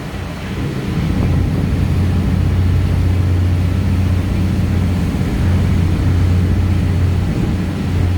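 Steady low engine drone with a constant pitch, dipping briefly right at the start and again near the end.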